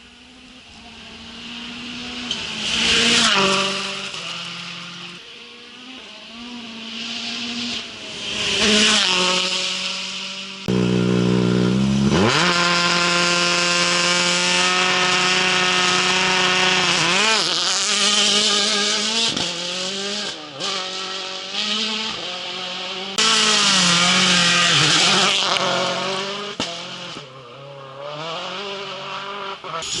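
Rally car engines, turbocharged four-cylinders of World Rally Cars at speed. Two cars pass in turn, each engine note swelling and fading. Then, after sudden cuts, an engine runs loud and close, its revs climbing and dropping repeatedly through gear changes.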